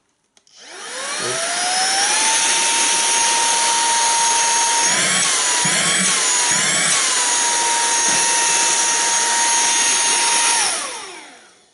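SERVOMASTER cordless handheld car vacuum switched on at its single speed: the motor whines up to a steady high pitch and runs with a loud airflow rush, its pitch wavering briefly three times around the middle with soft thumps. It is then switched off and winds down near the end, a noise level its owner calls middling: 'noisy, in between'.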